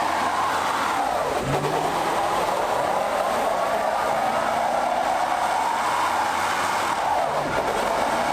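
Car running steadily, a continuous engine and road noise with no sharp revs.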